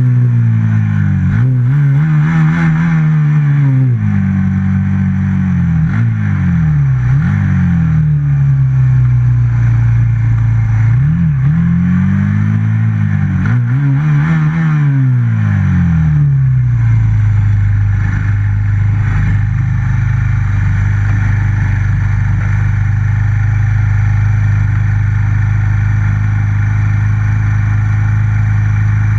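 Stock FXR150 race motorcycle engine, recorded onboard, revving up and down in several short pulls. About seventeen seconds in it settles to a steady idle.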